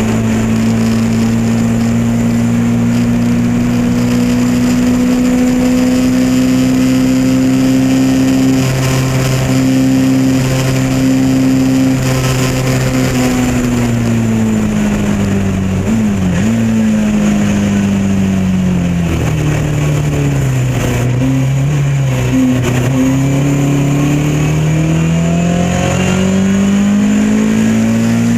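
Lotus Elan Modsports race car's twin-cam four-cylinder engine running at high revs for about thirteen seconds. The revs then drop away under braking, with a quick blip about sixteen seconds in and more small blips while low. They climb steadily again over the last few seconds as the car accelerates.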